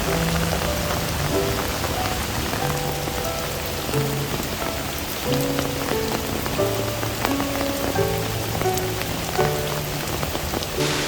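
Steady rain falling with scattered drop ticks, under soft background music of slow, held notes.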